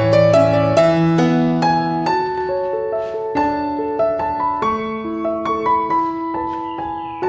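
Background piano music: a gentle melody of single notes played one after another, each fading out.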